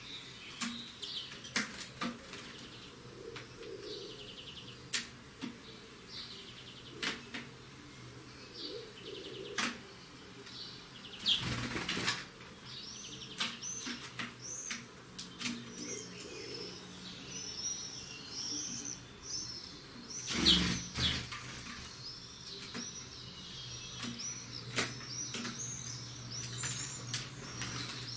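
European greenfinches calling and twittering, the chirps becoming a steady run of quick repeated notes over the second half. Scattered sharp clicks run through it, and two short bursts of wing flapping come about a third and about two-thirds of the way in.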